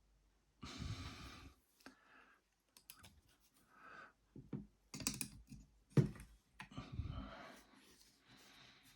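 Small clicks, taps and rustling as the opened heat gun's plastic housing and circuit board are handled, with a sharp knock about six seconds in.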